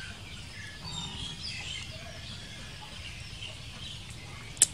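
Faint, scattered high chirps of birds, with a sharp click near the end.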